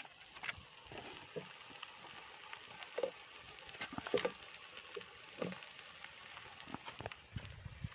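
Food sizzling in a cooking pan: a steady frying hiss with scattered crackles and small pops.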